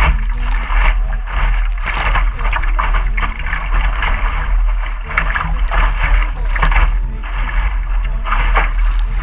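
Water rushing and splashing along a sailboat's hull as it moves, in irregular surges over a steady low rumble.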